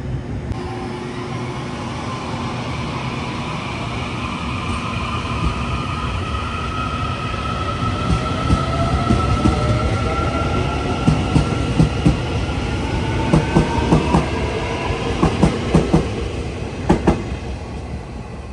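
Taiwan Railway train passing: a rumble with a whine that glides in pitch builds up. Then the wheels clack over rail joints in quick pairs for several seconds as the cars go by, and the sound fades near the end.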